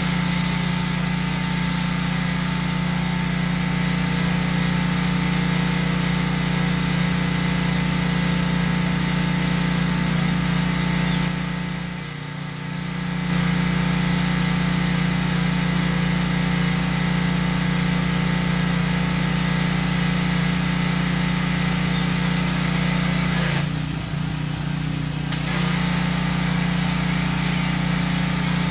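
Electric handheld blower running steadily with a constant hum, easing off briefly twice, about twelve seconds in and again near twenty-four seconds.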